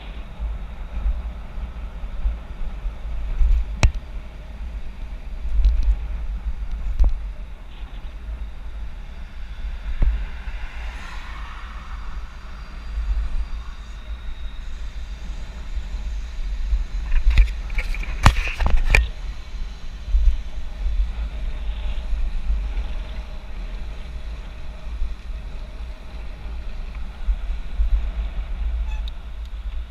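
Wind buffeting a GoPro's microphone during a bicycle ride, a constant fluctuating low rumble, with scattered sharp knocks and rattles from the bike and a quick burst of them a little past the middle.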